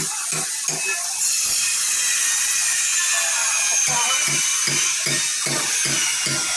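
Angle grinder running with a high, slightly wavering whine, along with a regular low pulse about three times a second.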